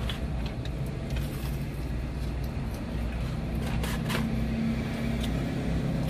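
Steady low hum of a car's engine idling, heard from inside the cabin, with a few small clicks and crinkles of food being handled in a paper box.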